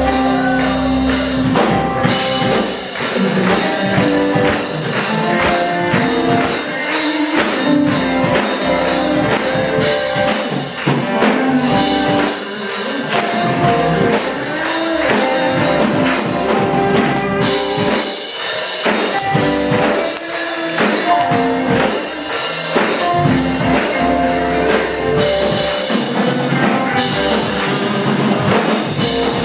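Live worship band music with a drum kit and guitar playing at a steady beat.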